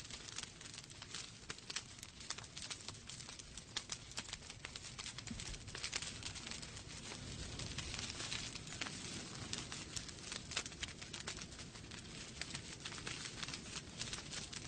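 Wood logs burning in a fireplace, crackling with many small, irregular sharp pops over a soft, steady hiss.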